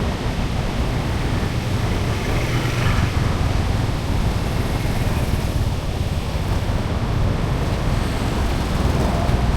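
Steady outdoor street ambience: a continuous low rumble with an even hiss over it, unbroken throughout.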